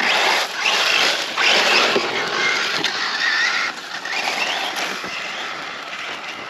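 Electric Losi RC truck driving off, its brushless motor whining up and down in pitch over the rush of tires on loose ground. It starts suddenly and fades over the last couple of seconds as the truck pulls away.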